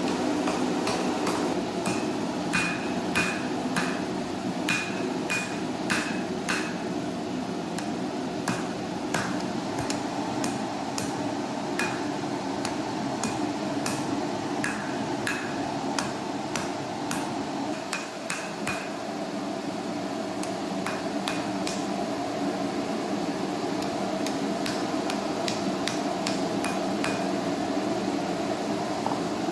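Hammer tapping on steel in irregular light strikes, each with a short metallic ring, over a steady machine hum. The strikes come thicker in the first two-thirds and thin out near the end.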